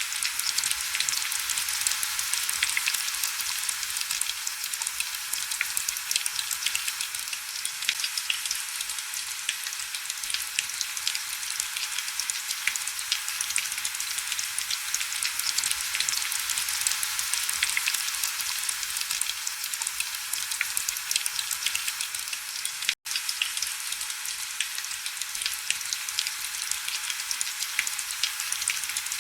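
Heavy rain pattering on window glass: a steady, dense crackle of countless small drop hits, thin and bright with almost no low rumble. It cuts out for an instant about 23 seconds in, then carries on unchanged.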